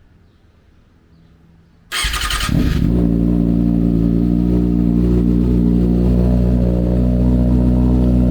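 Two seconds of low room noise, then a 2020 Kawasaki ZX-6R's inline-four cranks on the starter, catches within about half a second and settles into a steady, loud cold-start idle. It runs through an Austin Racing GP1 slip-on exhaust with the baffle (silencer) left out.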